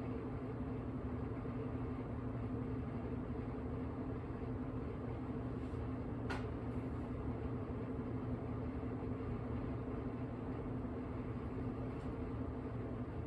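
AQUA Prette AQW-VA8M 8 kg washing machine on its spin-dry cycle: a steady motor hum with a constant low tone. One brief click about six seconds in.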